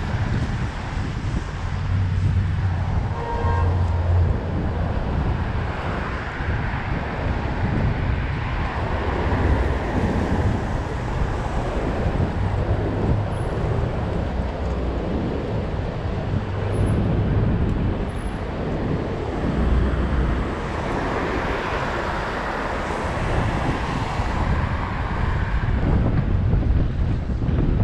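Wind buffeting the microphone during a bike ride: a steady rushing noise with a heavy low rumble that swells and eases in gusts. A short pitched tone sounds about three seconds in.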